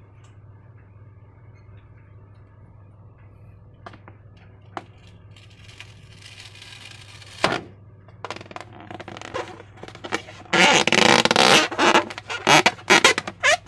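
Slime being handled, with soft wet squelches and a few sharp clicks, then loud, irregular squishing from about two-thirds of the way in. A steady low hum sits underneath.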